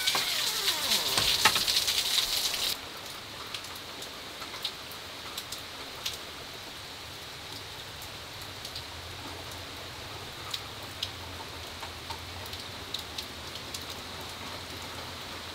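Heavy rain falling, loud at first and then abruptly quieter about three seconds in, continuing as a steady hiss with scattered sharp drip ticks.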